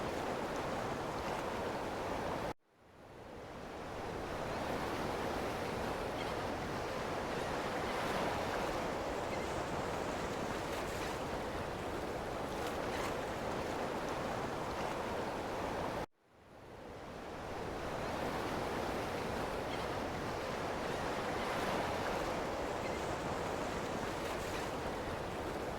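Ocean surf washing on a shore, a steady rush of waves. The sound cuts out abruptly twice, about two and a half seconds in and again about sixteen seconds in, and each time fades back in over a second or two.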